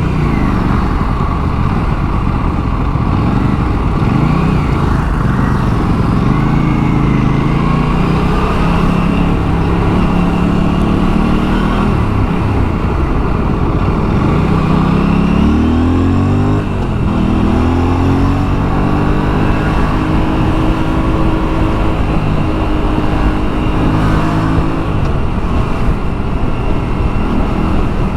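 Aprilia RS 457's two-cylinder engine pulling under load while riding, its pitch climbing and dropping back several times as it goes through the gears, over steady wind noise.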